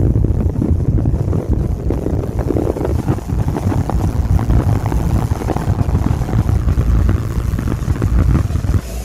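A carnival sound-system truck's large speaker stacks pumping heavy bass: a loud, dense low rumble with rapid, irregular thumps and little clear melody.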